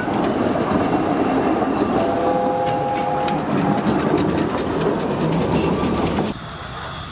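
Narrow-gauge steam train's coaches rolling past, wheels clicking over the rail joints. A steady tone sounds for about a second and a half, about two seconds in. The sound drops suddenly to a quieter background near the end.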